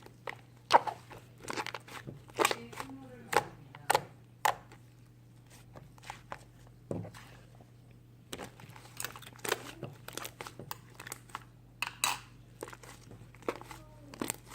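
Irregular short crinkles and clicks, like something being handled, over a steady low hum.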